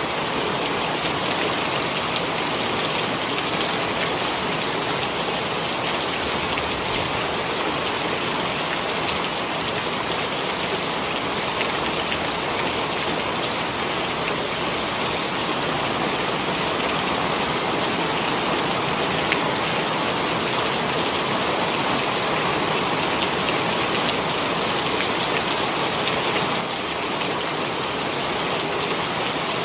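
Heavy rain pouring down, a steady dense hiss of drops on the surfaces around. It eases slightly for a moment near the end.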